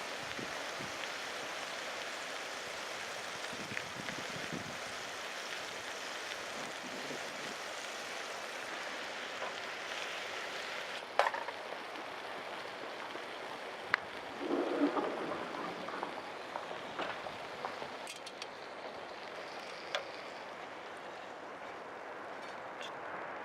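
Food sizzling steadily on a thick iron griddle over charcoal, with a few sharp clicks and a brief louder clatter about halfway through.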